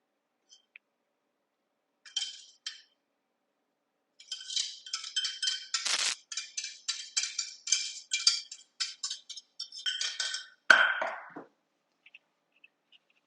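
A spoon scraping and clinking against a saucepan in quick repeated strokes as thick béchamel sauce is scooped out, with a faint metallic ring, ending in one louder knock near the end.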